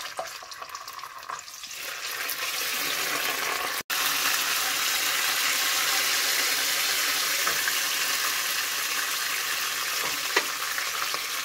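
Tomato paste frying in hot oil in a nonstick wok, sizzling steadily as a wooden spoon stirs it. The sizzle grows louder about two seconds in.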